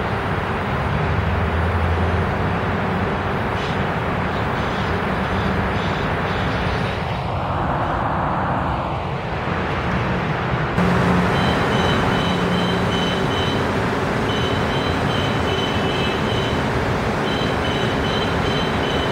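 Korail ITX electric train running in on the rails with a steady rumble, its sound swirling in pitch as it passes close about eight seconds in. About eleven seconds in the sound cuts abruptly to a steadier train noise with faint, repeated high whistling tones.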